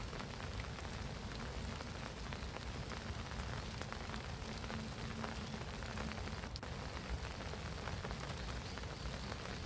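Spring rain falling on a pond: a steady, even patter of many small drops hitting the water.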